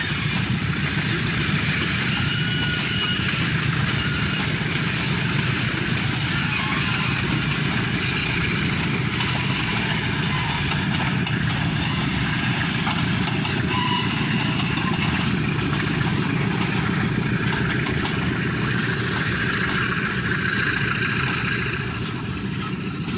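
Loaded ore freight train rolling past, with a steady, dense rumble and rapid clatter of wagon wheels on the rails. It eases off slightly near the end.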